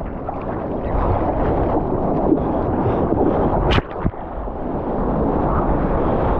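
Lake surf: churning, rushing water and wind buffeting the microphone in a loud, continuous rumble, with one brief sharp splash about four seconds in.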